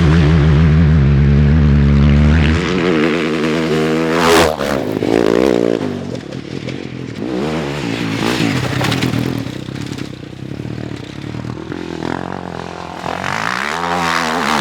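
Motorcycle engine running under steady load, then the revs rising and falling as the throttle is worked, with clattering and scraping in between as the bike goes over rough ground.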